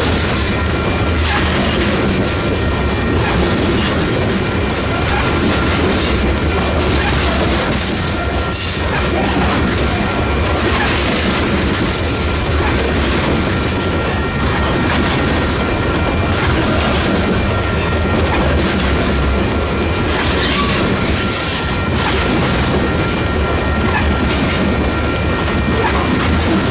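Freight train rolling past close by: a steady rumble of railcars with wheels clicking over rail joints at irregular intervals.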